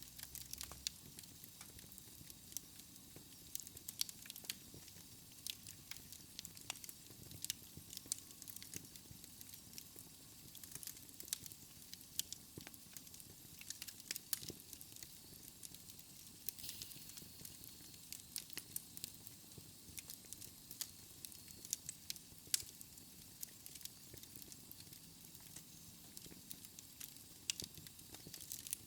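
Wood fire burning in a fireplace: a soft hiss with frequent irregular sharp crackles and pops.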